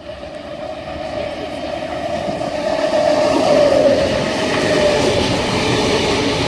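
A Sydney V-set double-deck electric intercity train passing through the station on the main line. It starts suddenly, grows louder over about three seconds, then holds steady with a constant tone running through the rushing noise.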